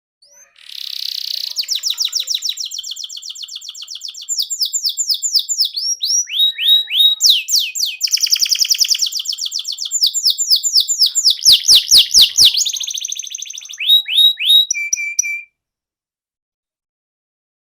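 Domestic canary singing a long, loud song of rapid trills and repeated downward-sweeping notes, changing phrase every second or two, which cuts off suddenly near the end.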